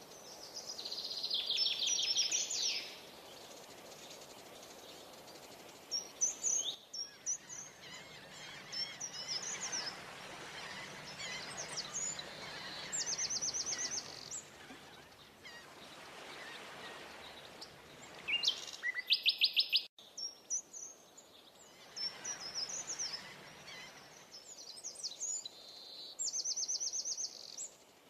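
Birds chirping and singing, with rapid high trills that come back several times, the loudest about two-thirds of the way through, over a steady background hiss.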